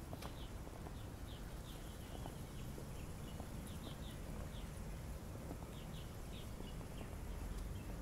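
Small birds chirping in short, scattered calls over a steady low background hum of outdoor ambience.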